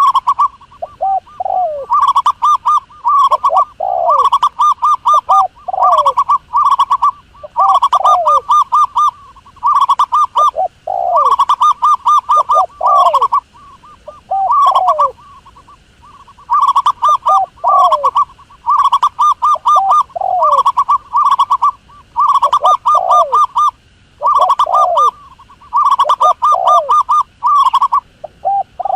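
Recorded doves calling: bursts of rapid, trilled cooing, each with a lower falling note, repeating about every two seconds.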